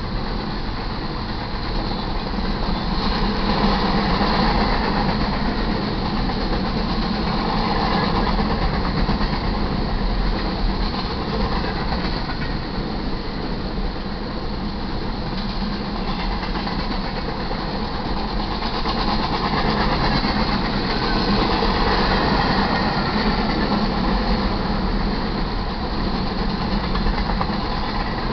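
Covered hopper cars of a freight train rolling past: a steady rumble and rattle of steel wheels on rail, rising and falling a little in loudness every few seconds.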